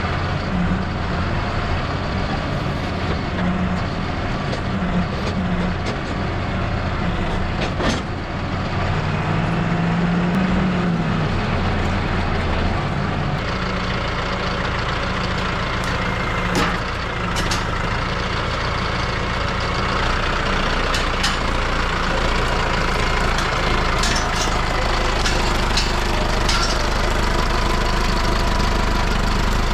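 A heavy engine running steadily, its pitch shifting now and then in the first half, with scattered sharp knocks and clanks in the second half.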